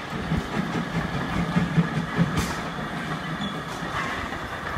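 Vintage railway passenger coaches rolling past on the track, a low rumble with uneven wheel beats that fades as the train moves away.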